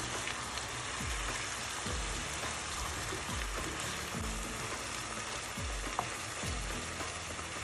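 Chicken mince and onions sizzling in hot oil in a frying pan, stirred and broken up with a wooden spatula: a steady, even sizzle. A soft low beat of background music pulses underneath a little more than once a second.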